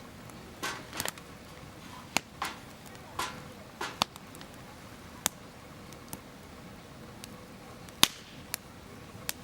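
Wood campfire crackling, with irregular sharp pops and short bursts of crackle over a low steady hiss.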